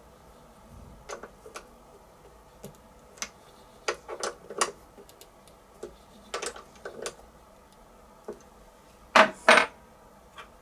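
Irregular light clicks and metal clinks of hand tools being handled while tapping small threaded holes in aluminium plate, with two louder knocks close together near the end.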